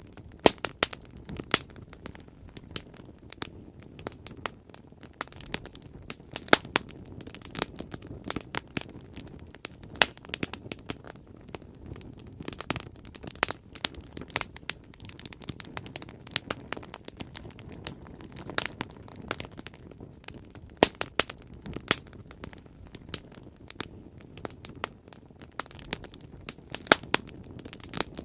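Wood bonfire burning: irregular sharp pops and crackles, several a second, over a steady low rumble of the flames.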